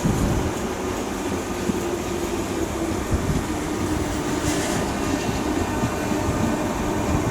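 Electric train running through a station: a steady rumble of wheels on rails with a faint motor hum.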